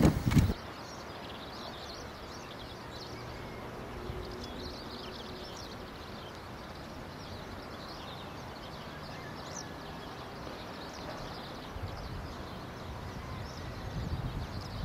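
Small birds chirping faintly over steady outdoor background noise, with a bump of handling noise right at the start.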